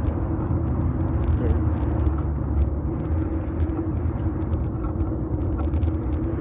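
Riding noise of a fixed-gear bike picked up by a phone in a metal handlebar mount: a steady rumble of tyres and air, with frequent small clicks and rattles from bumps in the path.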